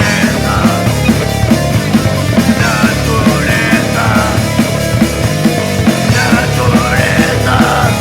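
Punk rock band playing live: distorted electric guitar, bass and drums with a fast, steady beat.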